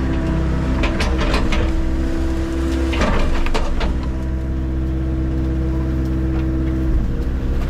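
Engine of a mini skid steer running steadily under work, with a few sharp knocks and cracks about one second in and again around three seconds in as wood is handled.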